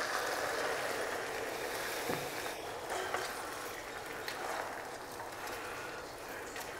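Well-browned onions frying in oil in a kadhai over a low flame: a faint, steady sizzle, with a few light clicks.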